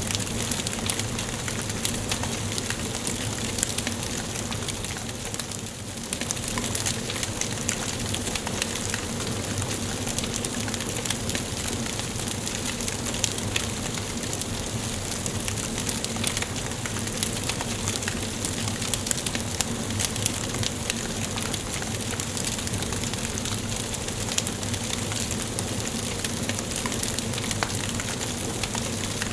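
Wood fire burning in a fireplace: a steady hiss with frequent sharp crackles and pops, dipping briefly about five seconds in.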